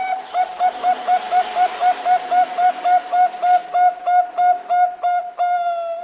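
Zebra dove (Thai-bred perkutut) call: a rapid run of short, same-pitched cooing notes, about four a second, ending in one longer held note, played as a lure to set other perkutut calling.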